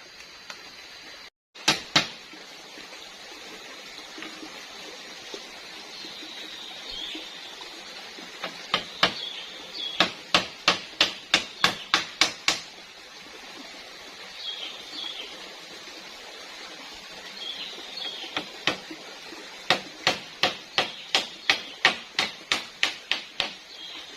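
Two runs of sharp, evenly spaced knocks, about a dozen each at roughly three a second, over a steady outdoor hiss, with faint high bird chirps between them.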